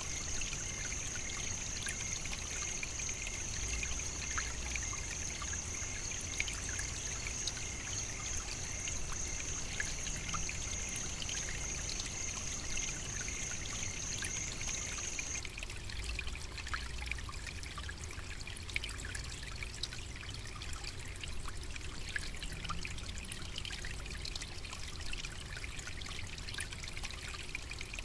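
Trickling, running water with a constant fine patter. Over it a steady high-pitched whine holds, then cuts off suddenly a little past halfway.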